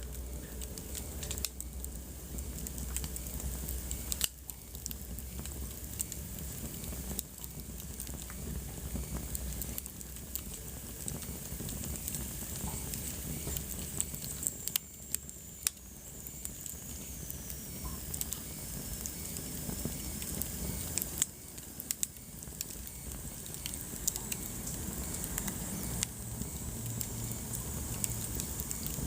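Wood fire burning in a fireplace: a steady hiss with frequent sharp crackles and pops from the logs. A thin, high whistle falls slowly in pitch about halfway through.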